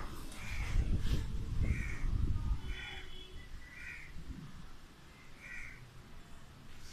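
A bird calling repeatedly, short separate calls about once a second, over a low background rumble that fades after the first few seconds.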